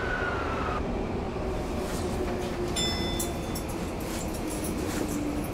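Tokyu commuter train running, with a steady rumble and a motor whine that falls slowly in pitch as the train slows into a station. A short electronic beep sounds about three seconds in.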